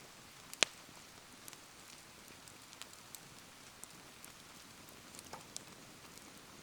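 Bonfire burning in the rain: steady soft rain patter with scattered small ticks and crackles, and one sharp, loud crack about half a second in.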